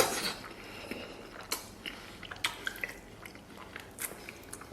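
Close-miked chewing of gelatinous red-braised pork trotter, with wet smacking and sticky clicks of the mouth every second or so, and a brief louder slurp right at the start.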